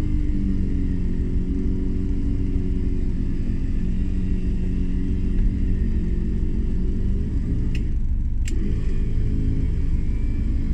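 Jeep engine idling steadily, with two brief clicks close together about eight seconds in.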